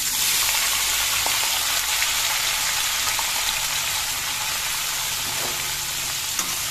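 Freshly added paneer cubes sizzling steadily in hot oil in a kadhai, with a few faint pops and ticks.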